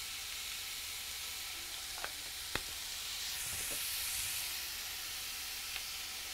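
Ground beef and diced onion sizzling steadily in a frying pan, with a few sharp ticks about two seconds in and again near the end.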